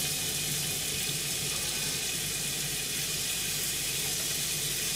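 Sliced beef frying gently in sesame oil in a frying pan on very low heat, a steady soft sizzle with a faint low hum underneath.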